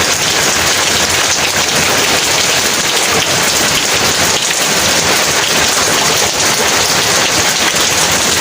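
Heavy rain pouring steadily, a dense, even patter of drops on surfaces.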